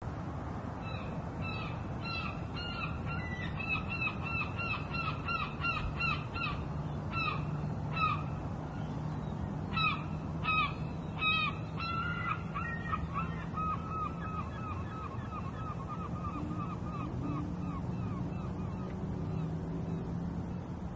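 A flock of birds calling over one another in short repeated calls, thinning out and growing fainter after about thirteen seconds, over a steady low hum.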